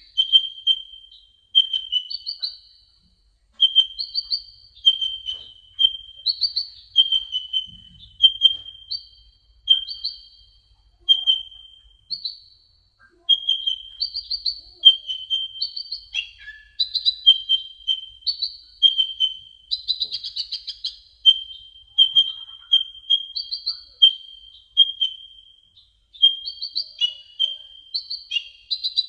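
Kolibri ninja sunbird singing: a continuous string of short, high chirps, about two a second, alternating between a lower and a higher note.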